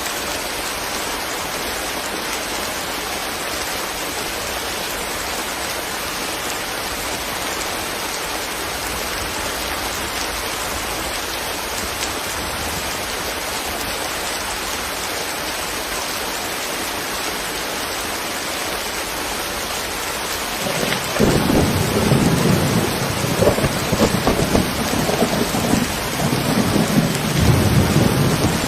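Steady, even rain. About 21 seconds in, a low rolling rumble of thunder begins, surging and growing louder toward the end.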